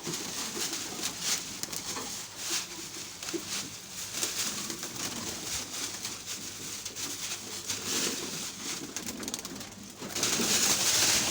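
Domestic pigeons cooing in a loft, with scattered short clicks and a louder rustling burst near the end.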